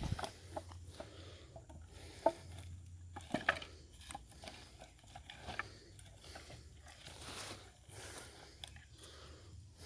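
Faint scattered knocks and clicks, with two sharper knocks about two and three and a half seconds in.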